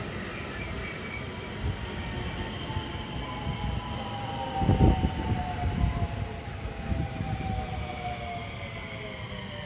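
JR West 223 series 2000-subseries electric multiple unit running over the rails with a steady rumble, its motors giving a whine in several tones that fall slowly in pitch over the second half. There is a loud low thump about five seconds in.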